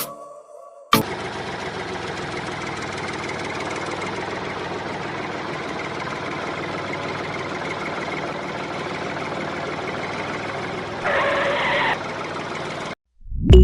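A small motor running steadily, starting about a second in, with a louder, brighter stretch of about a second near the end before it cuts off.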